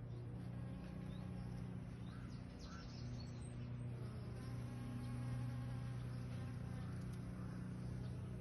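Bees buzzing close by: a steady, low insect hum with a slight dip about two and a half seconds in.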